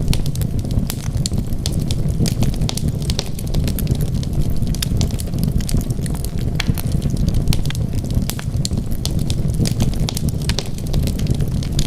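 Wood fire burning in a fireplace, crackling with frequent small sharp pops and snaps over a steady low rumble.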